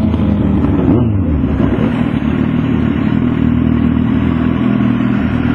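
Motorcycle engines running. One engine's pitch slides down about a second in, then the engine sound settles to a steady drone.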